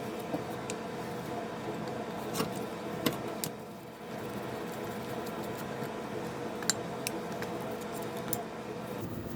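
Light metallic clicks and clinks, a few seconds apart, as tools and metal parts of an antique electric table fan are handled during disassembly, over a steady hum.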